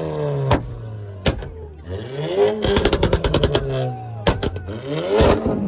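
Car engine revved on a two-step launch limiter, its exhaust firing loud pops and bangs. The revs drop and hold, then climb into a rapid string of bangs about three seconds in, fall back, and rise again with more bangs near the end.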